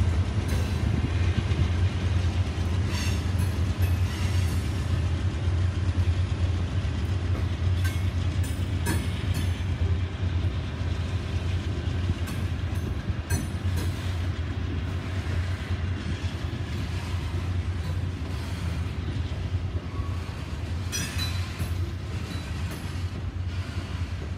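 Norfolk Southern freight train passing as a string of covered hopper cars rolls by. There is a steady low rumble, scattered clacking of wheels over rail joints, and the sound slowly fades toward the end.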